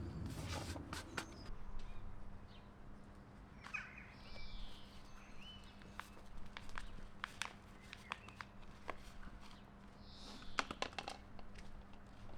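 Small birds chirping briefly a few times among scattered light clicks and taps.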